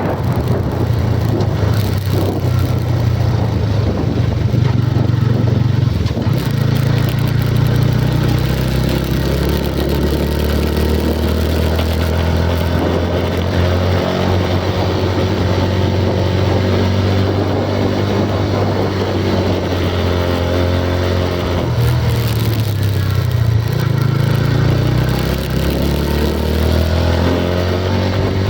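Motor vehicle engine running steadily under way, its pitch drifting up and down with engine speed.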